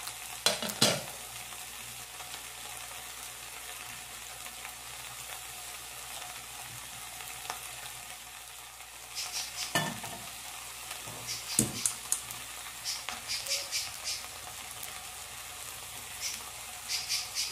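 Steady sizzling of food frying in fat on the stove, with a kitchen spoon stirring and clicking against a pot a few times: a little after the start, in the middle, and near the end.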